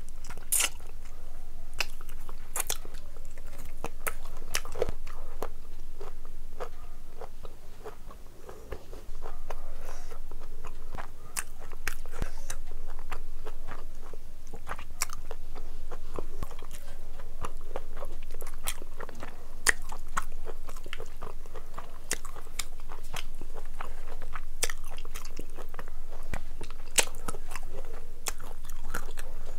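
Close-up chewing and mouth sounds of a person eating rice and curry by hand, with frequent short, sharp clicks and smacks of the lips and tongue.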